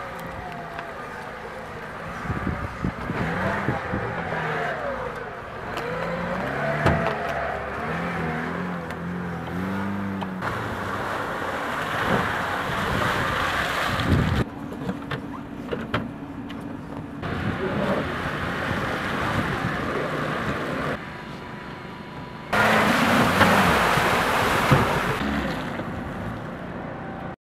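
A Lada Niva's engine revving up and down under load as the car works through mud, its pitch rising and falling again and again. The sound jumps in level at several points and is loudest a little before the end.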